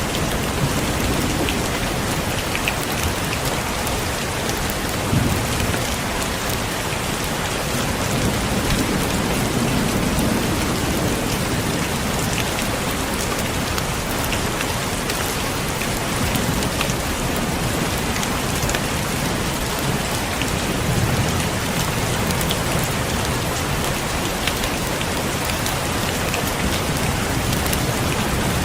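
Heavy rain falling steadily, with a low rumble of thunder swelling twice, about a third of the way in and again about three quarters of the way in.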